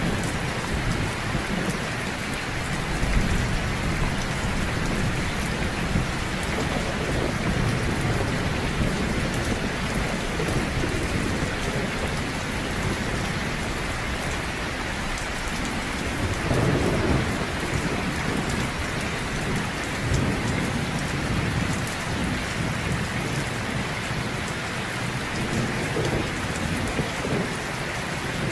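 Heavy rain pouring steadily, with low thunder rumbling underneath and one rumble swelling a little past halfway.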